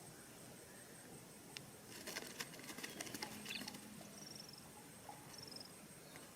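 Faint, short, high-pitched bird chirps, two of them slightly falling, after a flurry of light clicks and taps.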